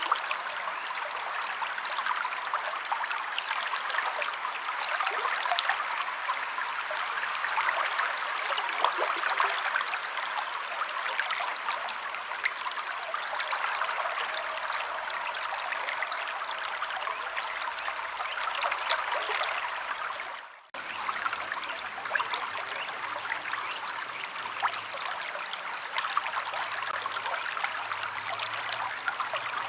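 River water flowing steadily, a continuous rushing and trickling, with a few faint high bird chirps. About two-thirds of the way through the sound cuts out for a moment and restarts, as at a loop splice.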